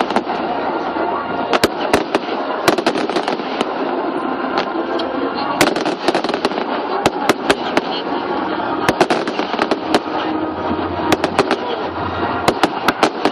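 Fireworks display: many sharp cracks and bangs, several a second in clusters, over a steady hum of crowd noise.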